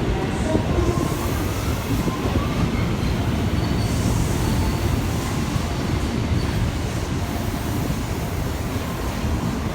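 Train running along the rails with a steady heavy rumble and faint, thin wheel squeals gliding in and out.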